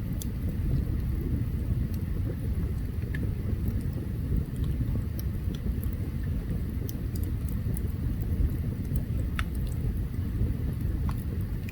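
Open campfire burning: scattered sharp crackles and pops over a steady low rumble, with one louder pop about nine seconds in.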